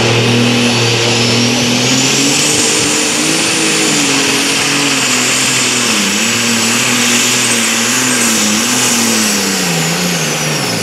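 Pulling vehicle's engine at full throttle, hauling the weight sled down the track. The engine note wavers up and down as the vehicle works for traction, with a high whine that climbs about two seconds in and holds. Both fall away near the end as the engine comes off.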